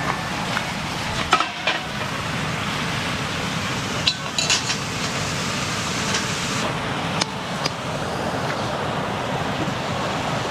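Metal pots and utensils clinking a few times against a steady rushing noise.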